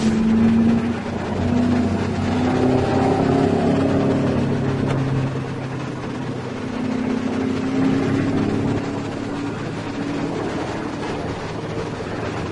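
Heavy diesel engine running, its revs rising and falling, with a louder surge about half a second in.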